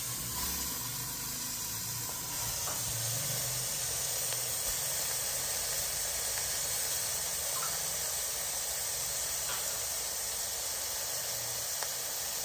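Freshly added minced mutton (keema) sizzling steadily in hot oil, with a few faint light clicks.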